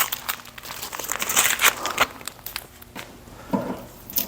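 Irregular crinkling and light clicking, the handling noise of something being moved or crumpled.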